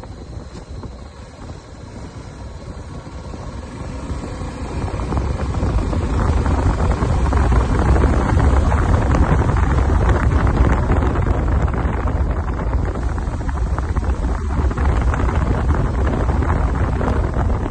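Wind buffeting the microphone: a low, rumbling rush that swells over the first several seconds and then holds steady.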